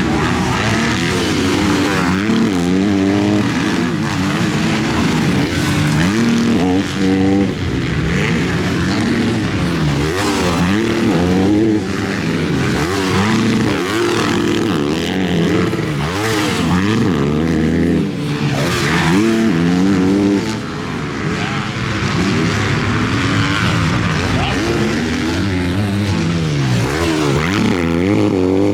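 Several MX2 motocross bikes racing, their engines revving up and dropping back again and again as the riders work the throttle and shift, with more than one bike heard at once.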